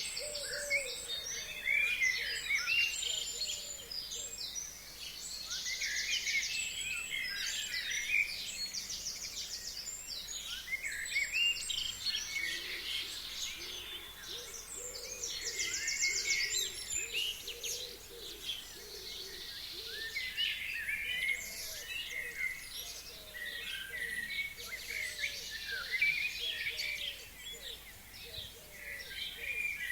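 A chorus of several forest songbirds singing, many short chirps and whistled phrases overlapping, with rapid high trills coming in again and again and a fainter, lower call repeating underneath.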